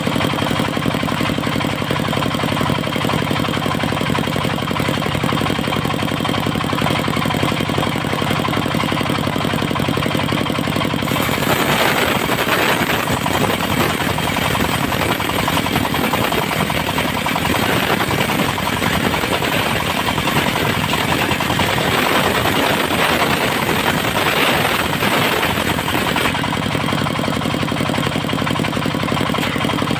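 Engine of a mobile circular sawmill running steadily. From about a third of the way in until near the end, a rough, louder noise rises over it as the circular saw blade cuts through mahogany, then the engine runs on alone.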